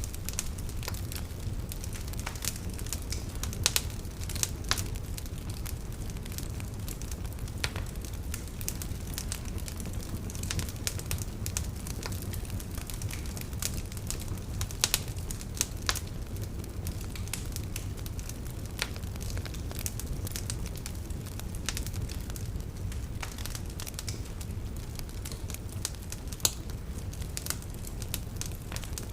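Wood fire crackling, with irregular sharp pops and snaps, a few of them louder, over a steady low rumble.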